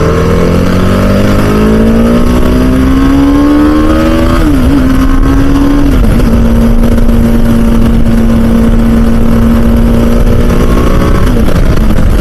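Motorcycle engine pulling up through the revs, with a shift about four and a half seconds in, then holding a steady cruise and easing off briefly near the end. Heavy wind rumble on the helmet microphone.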